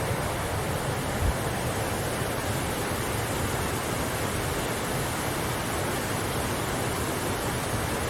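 Waterfall rushing steadily, a constant roar of falling water, with one brief low thump about a second in.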